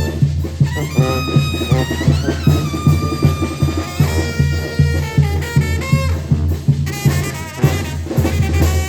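Brass band music: held horn melody lines over drums and a steady, pulsing bass beat.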